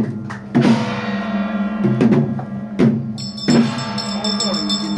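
Chinese temple-procession percussion music: drum and gong strikes about every second, over sustained ringing tones. A rapid high clatter joins a little past halfway.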